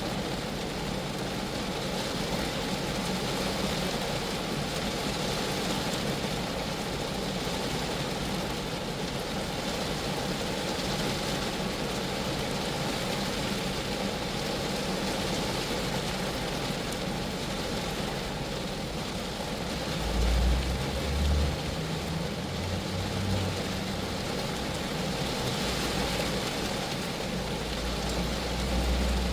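Steady rain falling on a Geo Metro, an even hiss over the car's body. A low rumble swells briefly about two-thirds of the way in and again near the end.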